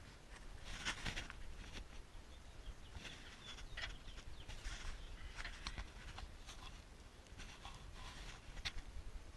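Faint, irregular light clicks and scrapes, like small hand-work noises, scattered over a low rumble.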